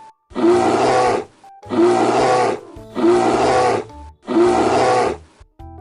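Bear roaring, four loud roars of about a second each, identical and evenly spaced like a repeated sound effect. A few soft music notes follow near the end.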